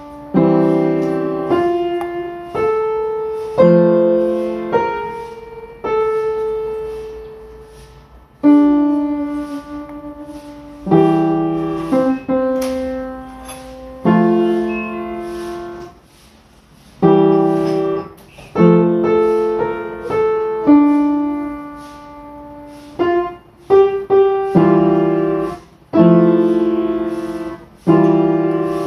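Solo piano music: slow chords struck every second or two, each left to ring and die away.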